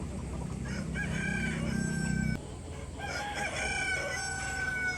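Rooster crowing twice, two long drawn-out crows one after the other. A low hum underneath cuts off about halfway through.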